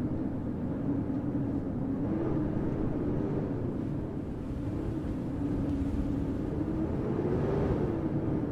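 Steady low rumble of city street ambience in a snowstorm, wind mixed with distant traffic, with a faint hum that wavers slightly in pitch.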